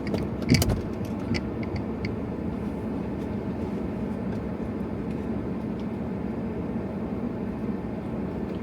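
Car idling with its air conditioning running: a steady hum, with a few sharp clicks and one louder knock in the first couple of seconds.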